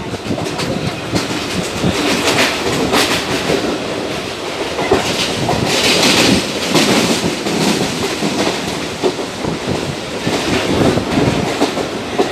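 Indian Railways suburban local train running at speed, heard from on board: wheels clattering over rail joints under a steady rushing noise, with a hissier stretch about six seconds in.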